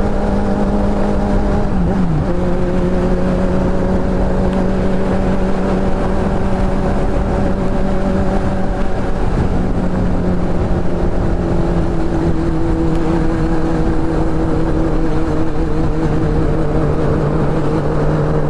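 Motorcycle engine running steadily at cruising speed, with heavy wind noise. Its pitch dips briefly about two seconds in, then steps down slightly twice later on as the throttle eases.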